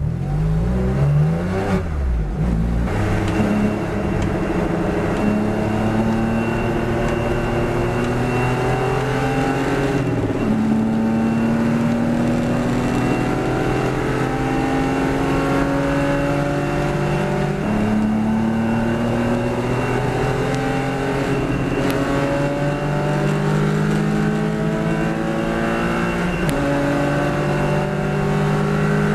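Porsche Boxster S's flat-six engine at racing speed, pulling hard through the gears. Its pitch climbs steadily for several seconds at a time and drops sharply at each of about four upshifts.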